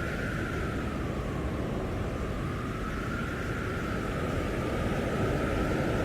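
Blizzard wind blowing hard: a steady low rushing roar with a faint high howl that wavers in pitch, growing a little louder near the end.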